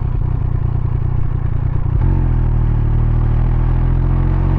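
Triumph Speed Triple 1200 RS inline three-cylinder engine running under way. About two seconds in, its choppy, pulsing note turns into a steady even tone.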